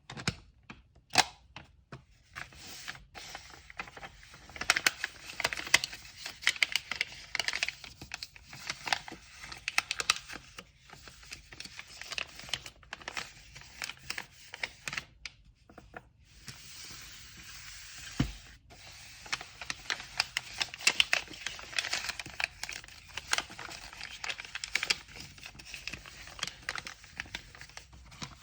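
Paper packaging being handled by hand: crinkling and rustling with many small sharp clicks, a louder click about a second in and a dull thump about two-thirds of the way through.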